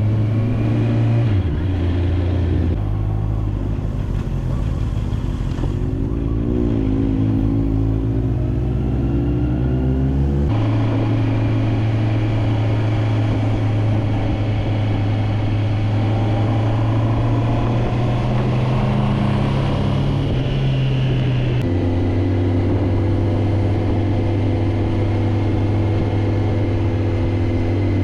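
Motorcycle engine running steadily while riding, its note changing pitch a few times and rising for several seconds in the first half.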